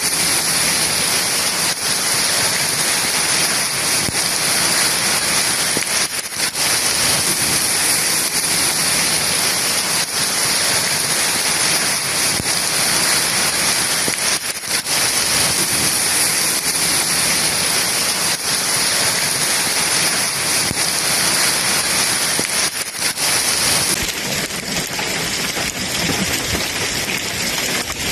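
Heavy rain pouring, a dense steady wash of water striking surfaces. The sound shifts slightly a few times, and about 24 seconds in it becomes less hissy in the highs.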